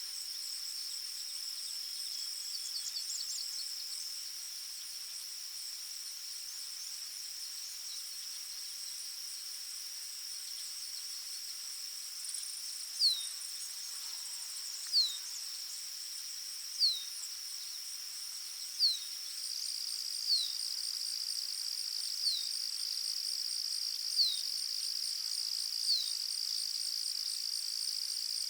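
Forest insects, cricket-like, trilling steadily at a high pitch. From about halfway through, a bird repeats a short, falling whistle about every two seconds.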